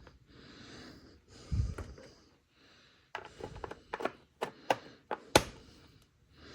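Handling noise: a dull thump about one and a half seconds in, then a quick run of sharp clicks and knocks, the loudest near the end.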